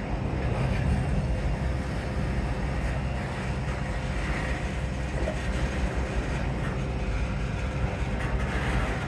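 Freight train rumbling steadily: centerbeam flatcars loaded with lumber, hauled by a GP38-2 diesel locomotive.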